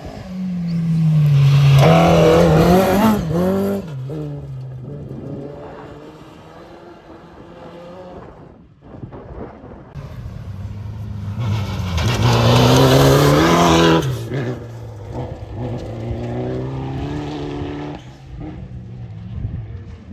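Rally car engine at full race pace, revving hard and changing pitch through gear changes. It is loudest twice, about ten seconds apart, and quieter in between.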